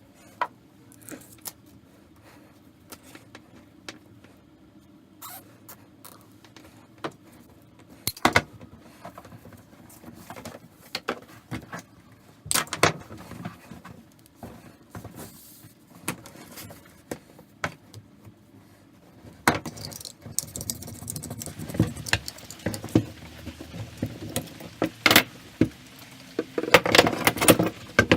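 Small hard objects and tools being handled at a workbench: scattered clicks and knocks, turning into busier scraping, rustling and clattering about two-thirds of the way in.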